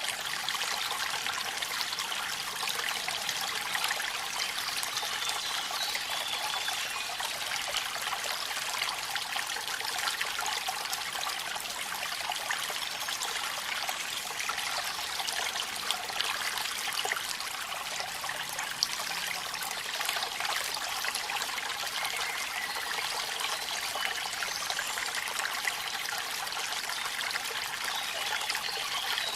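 Waterfall and rain at night: a steady, even rush of falling water with a fine spatter of drops.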